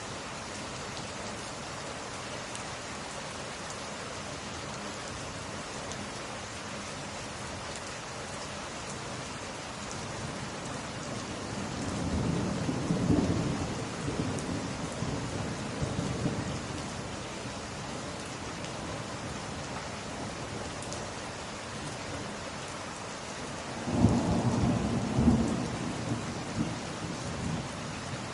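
Steady rain, with two rolls of low thunder: one building about twelve seconds in, and a sharper one about twenty-four seconds in.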